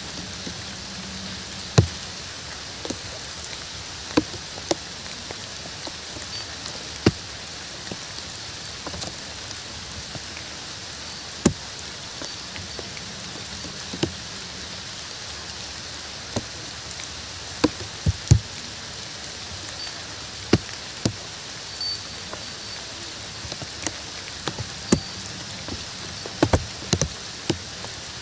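Steady rain hiss, with large drops landing close by in sharp, irregular taps that come more often near the end.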